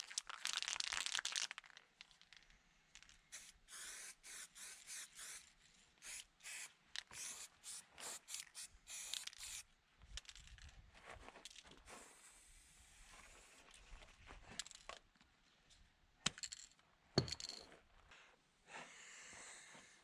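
Small metal clamps being painted: a longer hiss at the start, then a quick run of short hissing, scraping strokes, a few sharp clicks and another steady hiss near the end.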